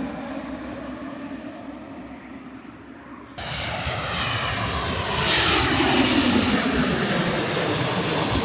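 A small airliner's engines passing low overhead as it comes in to land, swelling louder with a falling pitch as it goes by. The sound jumps suddenly louder a little over three seconds in.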